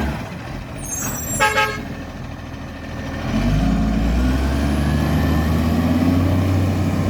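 Garbage truck's diesel engine running, with a brief horn toot about a second and a half in. From about three seconds the engine picks up and runs louder, the truck pulling away with its badly leaking exhaust.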